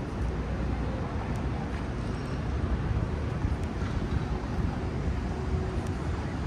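Steady city street ambience: an even low rumble of traffic mixed with wind on the microphone, with a few faint clicks.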